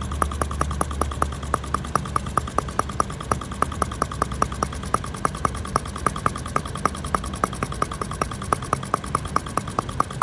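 1.9 cc single-cylinder gasoline model engine running, with a sharp regular ticking several times a second over a low steady hum.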